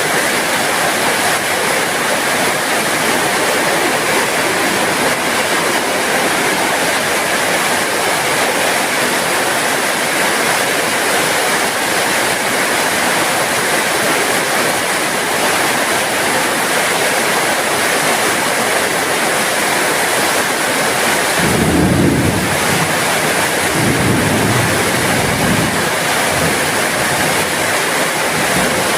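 Heavy rain falling steadily, with a low rumble rising about three quarters of the way through and fading again over several seconds.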